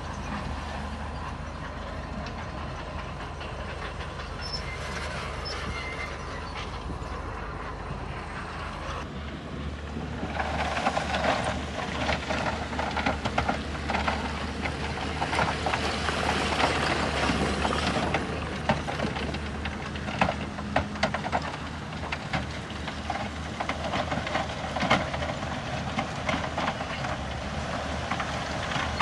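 Heavy bulldozer engine running steadily. About ten seconds in, a dense clatter of clanking and crunching joins it and grows louder, as from steel tracks and stone while the machine pushes rock.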